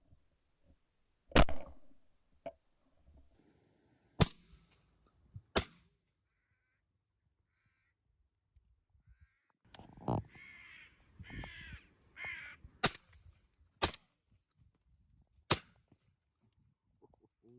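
Crows cawing, a quick run of four calls a little past the middle, among sharp shotgun reports: about seven shots spread through, the two loudest in the first five seconds.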